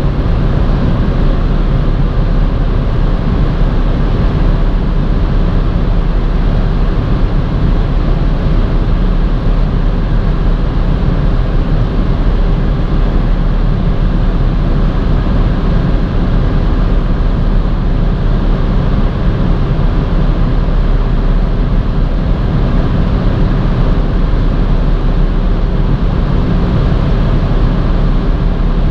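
Car heard from inside the cabin, driving at a steady speed: continuous road and wind noise with a steady engine drone that neither rises nor falls.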